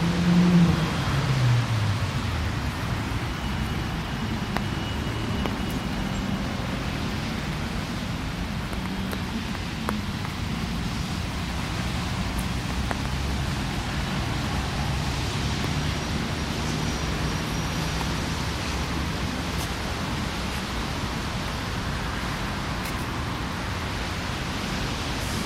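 Steady hiss of light drizzle over background road traffic. About a second in, a passing vehicle's engine grows louder and falls in pitch.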